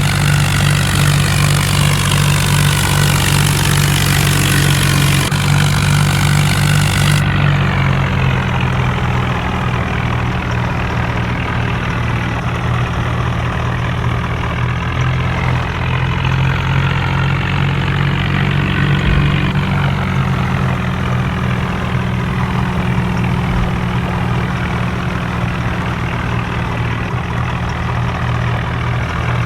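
Engine running steadily at idle, a constant low hum throughout.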